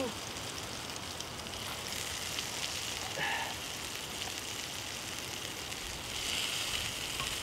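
Acorn-flour biscuits sizzling as they fry in raccoon fat in a metal pan, a steady fine crackle.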